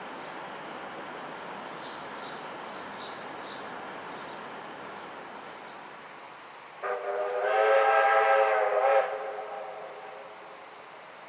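The rumble of a passing train fades away, then the locomotive sounds a loud chord-like blast lasting about two seconds, which cuts in suddenly and dies away.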